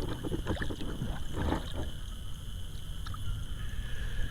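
Wind noise on the microphone: a steady low rumble, with a few faint clicks and knocks in the first two seconds.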